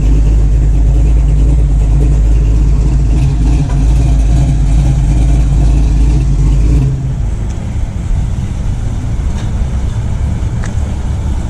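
Plymouth Duster's V8 engine running low and deep as the car drives past, dropping off after about seven seconds as it moves away.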